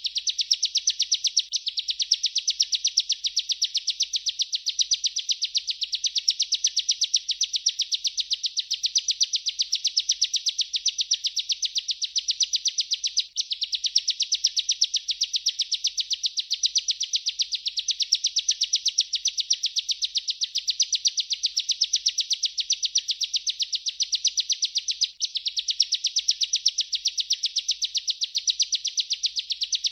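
Bar-winged prinia (ciblek) singing its unbroken rolling song: a fast, even string of high chirping notes that runs on without pause except for two very short breaks.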